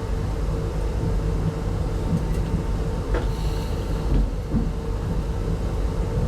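Steady low rumble of a passenger train running on the line, heard from inside an RZ25T soft-seat coach, with a faint steady hum and a brief click about three seconds in.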